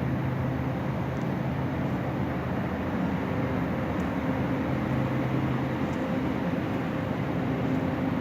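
Shopping cart wheels rolling over a store floor, a steady rumble with a faint low hum under it.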